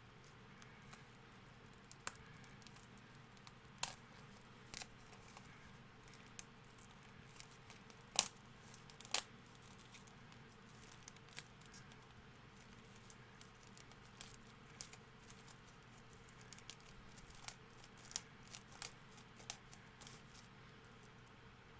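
Irregular clicks, crackles and crinkling from a CD set's packaging being handled and opened, a few louder snaps about eight and nine seconds in, and the clicks coming more often in the second half.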